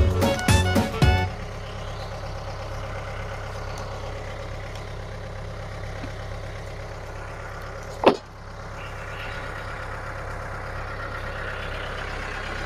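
An engine running steadily, with one sharp loud thump about eight seconds in. Music fades out in the first second.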